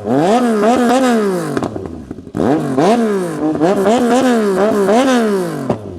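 A car's exhaust in a 2-step battle: the engine is revved hard over and over, its pitch swinging up and down about twice a second, with sharp cracks and pops from the exhaust. It drops off briefly around two seconds in, then revs up again in a second long burst.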